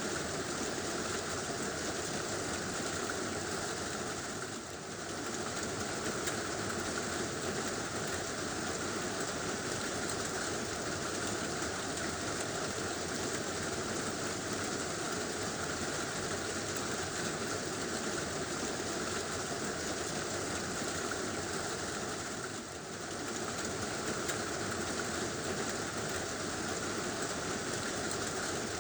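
Heavy rain falling steadily on a tin roof, a dense, even patter with no thunder heard. It eases briefly twice, about 5 seconds and 23 seconds in.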